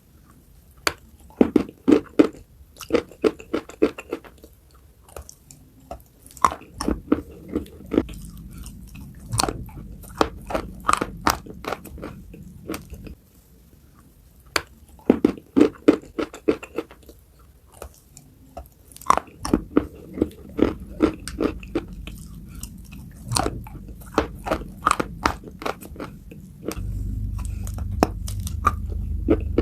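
Crunchy food being bitten and chewed close to the microphone: sharp crunches in quick bursts of several a second, in groups broken by short pauses.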